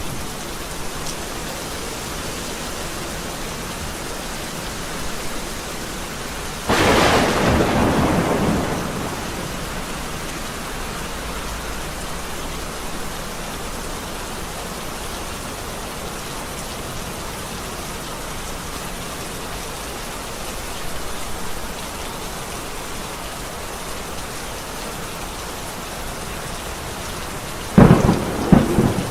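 Steady rain falling, broken by two thunderclaps. The first comes about seven seconds in and rumbles away over a couple of seconds. The second is a sharp crack near the end.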